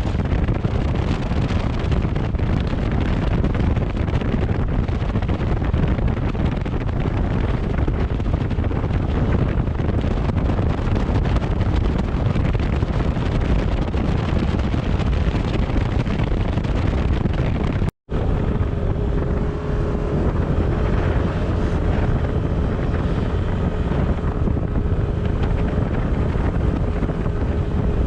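Wind buffeting the microphone over the running noise of a moving vehicle. The sound cuts out for an instant about two-thirds of the way through, after which a steady hum joins the noise.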